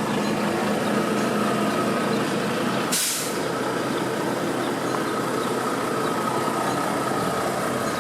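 CAT diesel engine of a Cub Cadet commercial zero-turn mower running steadily, with a short hiss about three seconds in.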